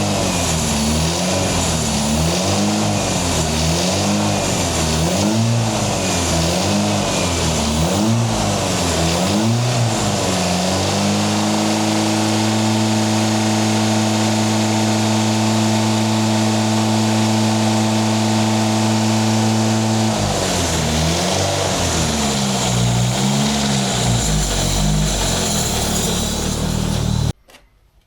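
Toyota Celica GT-Four (ST185) 3S-GTE turbocharged four-cylinder engine being revved, its speed rising and falling about once a second, then held steady at a raised speed for about ten seconds, then blipped again until the sound cuts off suddenly near the end. The engine has just been started after sitting for two years.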